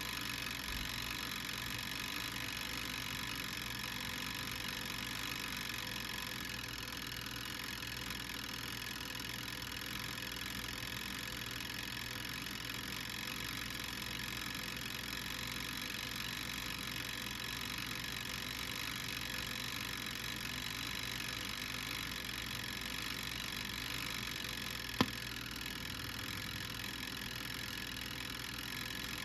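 Garlic sizzling steadily as it cooks, with one sharp click near the end.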